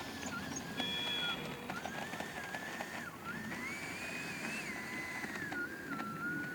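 Electric ducted fan of a Freewing 90mm EDF J-10 RC jet whining, its pitch stepping up and down with the throttle and peaking about two thirds of the way through.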